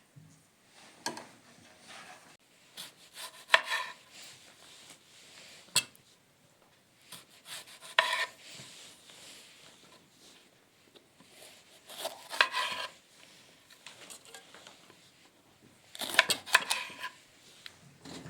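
Food being cut with a knife on a wooden board: short clusters of sharp knocks every few seconds.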